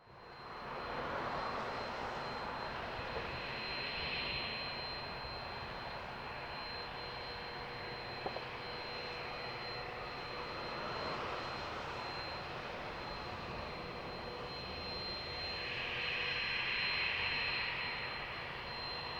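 Cessna 560 Citation V business jet's twin Pratt & Whitney Canada JT15D turbofans running, a steady roar with a constant thin high whine that swells a little twice.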